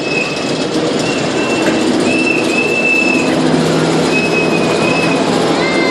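Heritage railway train pulling into a station over steady wheel-on-rail rumble, with high metallic squeals from the wheels coming and going several times.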